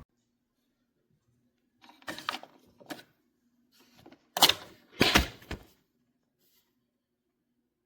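A few clicks and knocks, then two loud clunks about four and a half and five seconds in.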